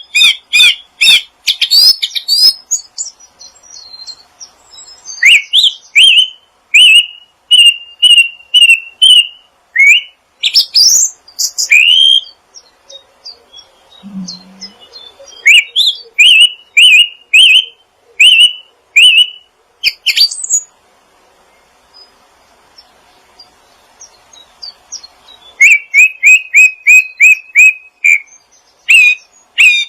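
Small songbirds chirping in quick runs of short, sharp repeated notes. The bouts are broken by pauses of a few seconds.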